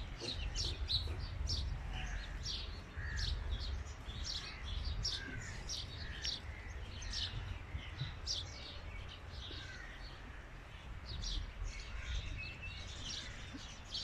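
Small birds chirping, a steady run of many short, high chirps, over a low rumble.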